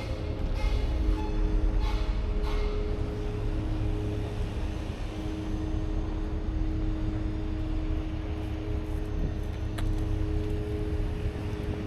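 Urban outdoor ambience: a steady low rumble with a constant two-note hum, as of nearby engines or machinery running. There are a few brief higher sounds in the first three seconds and a single sharp click near the end.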